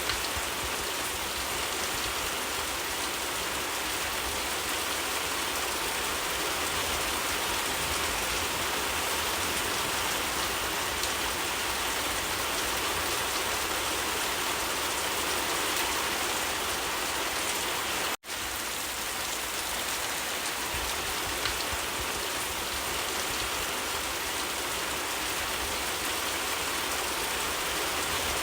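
Steady rain falling, a dense, even hiss of drops, broken once by a split-second dropout about two-thirds of the way through.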